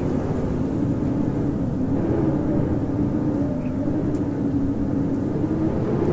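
Strong wind howling steadily over a deep rumble, with a low moaning note that wavers up and down in pitch.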